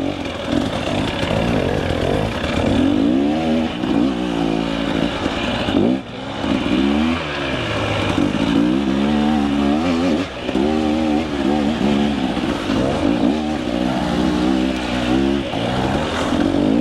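KTM 300 EXC two-stroke dirt bike engine revving up and down over and over as the throttle is worked, with brief drops off the throttle about six and ten seconds in.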